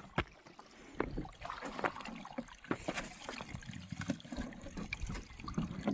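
Water splashing and trickling, with irregular knocks and clatter from something being handled in it.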